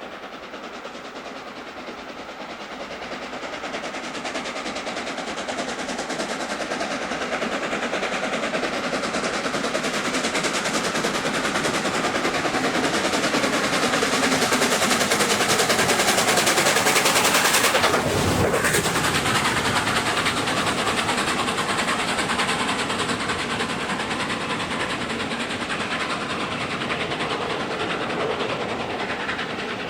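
Steam locomotive passing under power, its rapid exhaust beats growing louder, peaking about two-thirds of the way through, then fading away. The pitch drops as it goes by.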